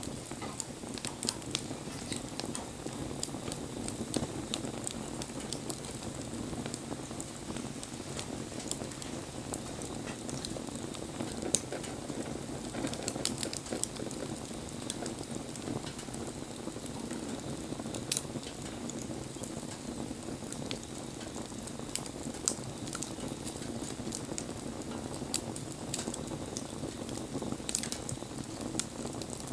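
Wood fire burning: a steady low rush with irregular sharp crackles and pops, a few of them much louder than the rest.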